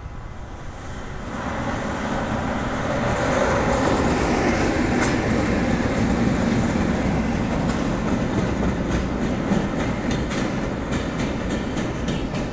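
JR Freight EF210 electric locomotives passing on the track, wheels clicking over the rail joints. The rumble swells about a second in, is loudest as they go by, and eases as they draw away, with a run of clicks near the end.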